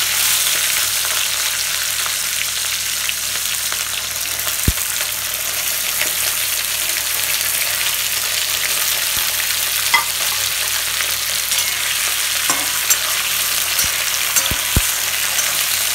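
Vegetable pieces sizzling in hot oil in a metal kadhai as they are dropped in, a steady high hiss. A few light taps in the second half as the vegetables are stirred with a spatula.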